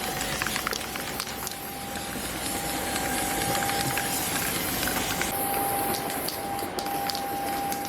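A machine running with a steady hiss and a constant mid-pitched whine, with scattered light clicks.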